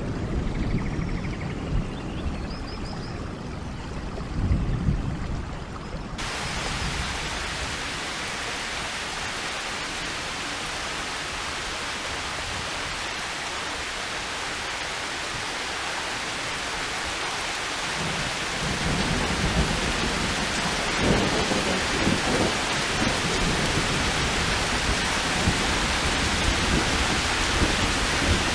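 Steady, heavy rainfall hiss that cuts in suddenly about six seconds in, replacing a low rumbling sound with a few faint high chirps. In the last third, low thunder rumbles under the rain.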